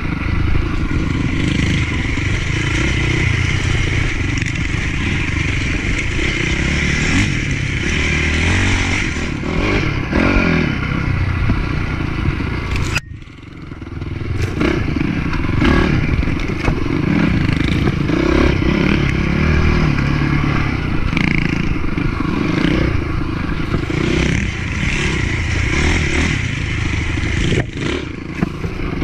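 Motocross bike engine running hard with changing throttle, with clattering and scraping from the bike working over dirt. The sound drops away sharply about halfway through, then picks back up.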